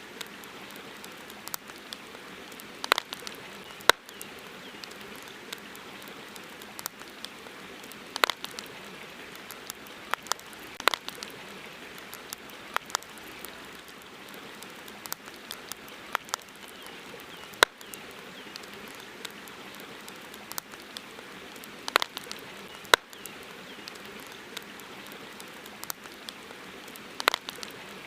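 Campfire burning, wood crackling with irregular sharp pops and snaps over a steady hiss.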